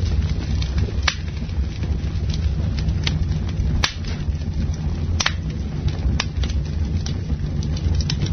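Campfire crackling and popping: a steady run of small snaps from burning wood, with a few sharper, louder pops (about a second in, near four seconds, around five and six seconds), over a steady low rumble.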